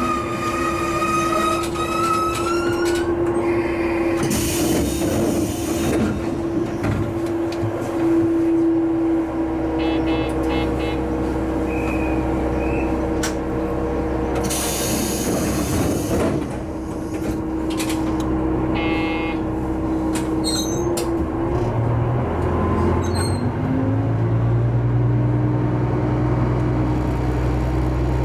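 Diesel railcar running along the track with a steady engine hum. Two short hisses sound during the run, and in the last third the engine note deepens and rises as it works harder.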